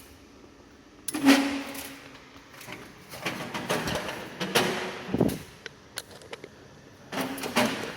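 Handling noises: scraping, rubbing and knocking as objects are moved about, loudest about a second in and again near the end.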